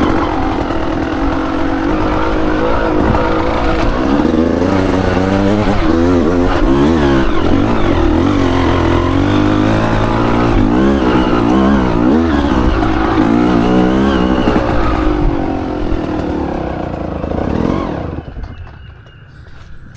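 Dirt bike engine revving under load, its pitch repeatedly rising and falling as the throttle is worked, then dropping away near the end.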